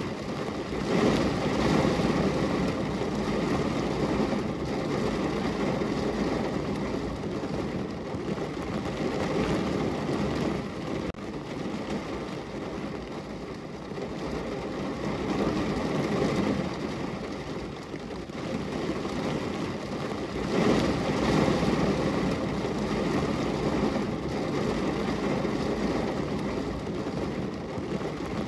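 Rain falling on window glass: a dense, steady hiss that swells louder and eases off several times.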